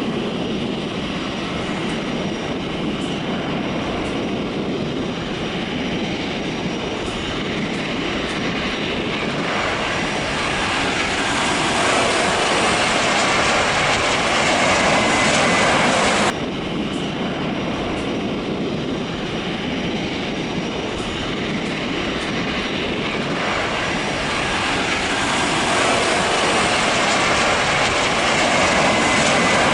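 Jet airliner engines on a landing approach: a steady rushing roar that builds as the aircraft comes closer. It breaks off suddenly about halfway through and then builds again with a second aircraft.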